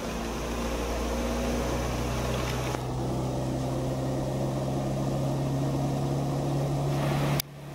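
Lexus IS200's 2.0-litre straight-six running steadily in fourth gear under light load on a chassis dyno, with engine speed creeping up from about 1000 to 1400 rpm, a low even drone. It breaks off abruptly just before the end.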